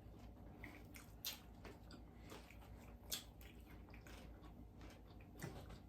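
Faint chewing of a crispy chicken and bacon lettuce wrap: a few short wet clicks and squishes from the mouth, spread a second or two apart, over a low steady hum.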